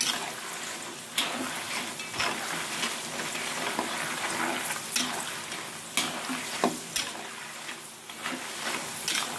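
Kerupuk crackers frying in oil in an aluminium wok, a steady sizzle, with irregular clinks and scrapes of a metal spatula against the wok as they are stirred and turned. They are fried slowly over medium heat so that they stay flat and dense (bantet) rather than puffing up.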